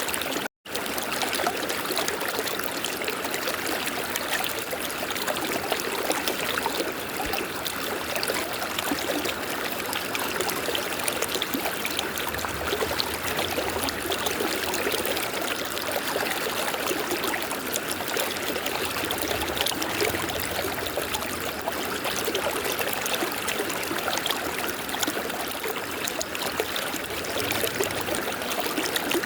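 River water flowing, a steady rush and trickle, broken by a split-second gap of silence about half a second in.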